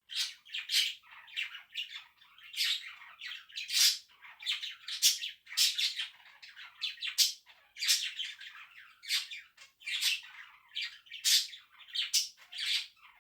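Several pet budgerigars calling loudly over one another: a continuous run of short, harsh squawks and chirps, several a second.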